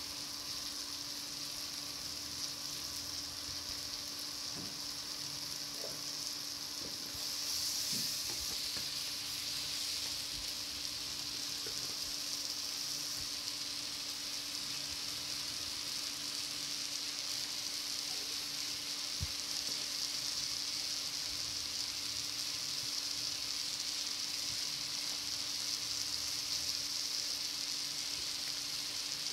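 Mushrooms, onions, capsicum and carrots sizzling steadily in hot oil in a non-stick frying pan, the sizzle growing a little louder about eight seconds in. A faint steady hum runs underneath.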